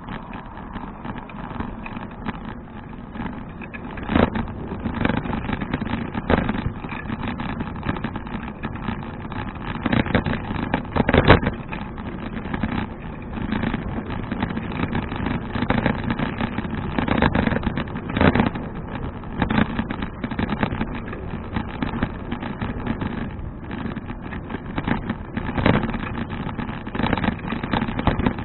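Riding noise of a touring bicycle: steady wind and road rush with frequent sharp rattling knocks, getting louder over the first few seconds.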